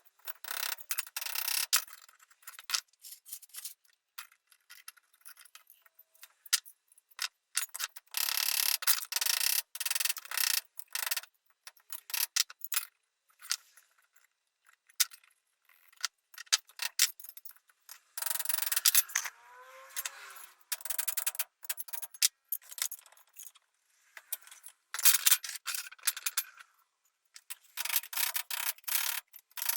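Scraping and rubbing from hand work on a part, in short irregular bursts with pauses between them, and a brief squeak about nineteen seconds in.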